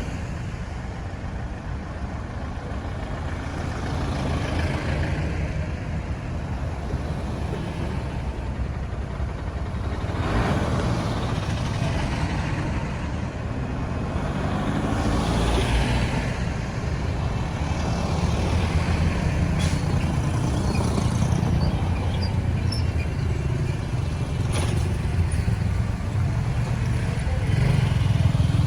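Busy road traffic: a steady low rumble of engines and tyres, with vehicles passing close by about ten and fifteen seconds in.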